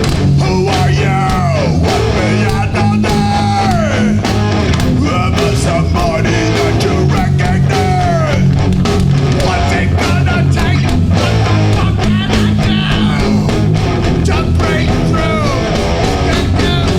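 Hardcore punk band playing live and loud: distorted electric guitars, bass and drums, with a high line that slides down in pitch several times.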